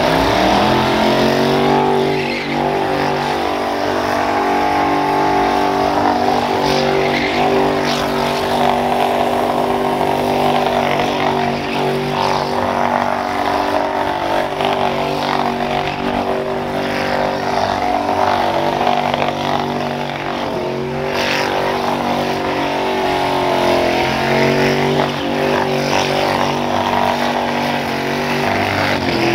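A vehicle engine running loudly at a steady speed for long stretches, its pitch stepping up or down a few times.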